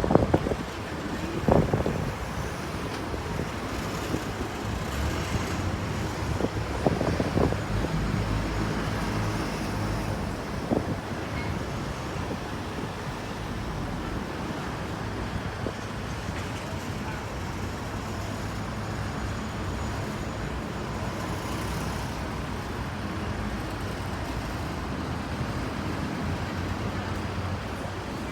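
City street ambience: a steady rumble of road traffic with a low engine hum, and a few short sounds in the first ten or so seconds.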